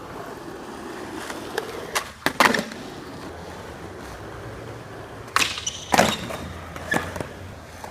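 Skateboard wheels rolling steadily, broken by sharp clacks and smacks of the board: a few about two seconds in, and more in a cluster from about five and a half to seven seconds in.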